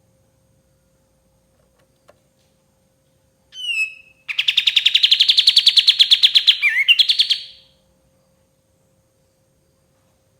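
A kapas tembak, a bulbul, singing: one short falling whistle, then a fast, even trill of rapidly repeated notes lasting about three seconds, with a brief twist in the middle. Silence surrounds the phrase.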